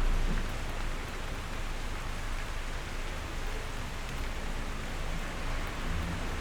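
Steady rain falling, an even hiss with no single drops standing out; a deep low rumble dies away in the first half second.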